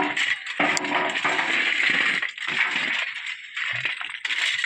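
Loose white stone clattering and rattling as a backhoe loader's load of rock is dumped. The clatter is dense for about two seconds, then thins into shorter bursts.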